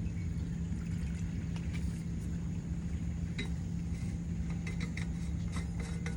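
A steady low mechanical hum with a constant pitch, and a few light clicks and clinks over it, most of them in the second half.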